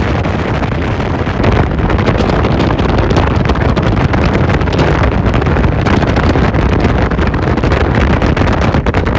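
Wind rushing over the microphone on a moving motorbike, a loud steady rumble mixed with the bike's running noise.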